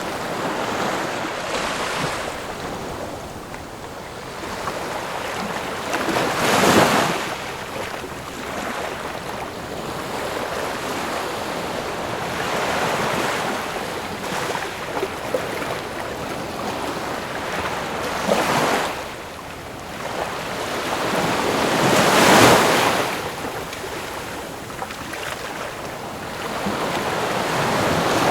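Ocean waves breaking on a shore in a continuous wash of surf, with louder breakers about a quarter of the way in, about two-thirds in and near 22 seconds, each swelling and fading.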